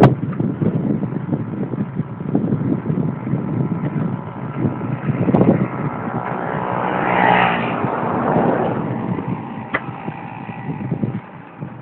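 Mountain bike ridden over rough trail: uneven rattling, knocking and rumble, with a pitched whirr that swells and fades in the middle.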